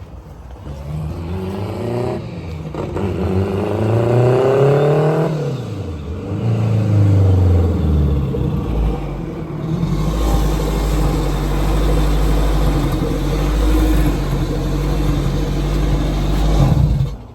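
A car engine revs, its pitch climbing for about three seconds before dropping back, then runs loud and steady for several seconds and stops suddenly near the end.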